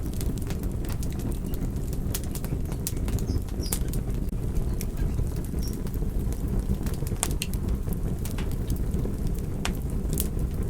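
Wood fire crackling: a steady low rumble of flames with frequent sharp, irregular pops and snaps.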